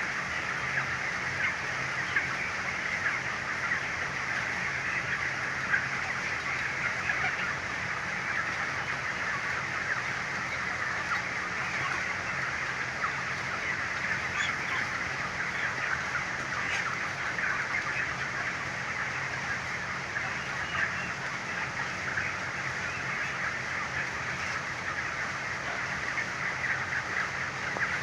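A large flock of young broiler chickens calling continuously, a dense chatter of many overlapping short chirps and clucks, over a steady low hum.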